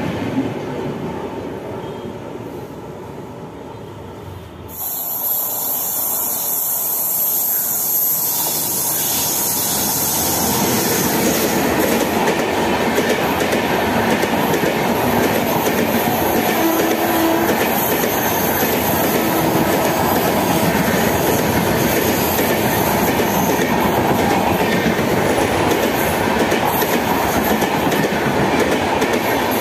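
A long passenger express's coaches rolling past at speed: a steady rush and rumble of wheels on the rails. It comes in suddenly about five seconds in, after a quieter, fading start, swells over the next several seconds, then holds steady.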